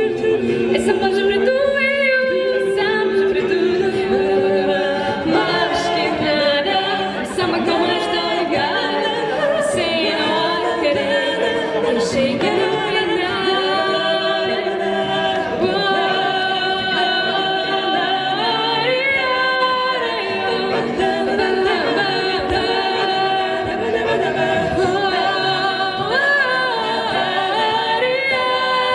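An a cappella vocal ensemble singing in several-part harmony, with no instruments.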